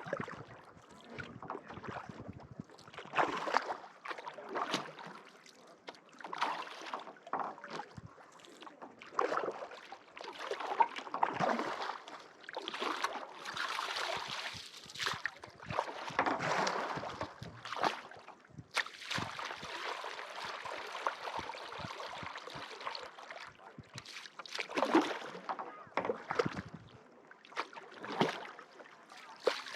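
Kayak paddle strokes in lake water, irregular splashes and drips coming every second or two.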